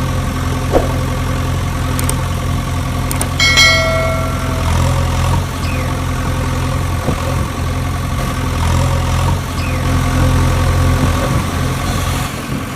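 An engine idling steadily, with a short bell-like ding about three and a half seconds in.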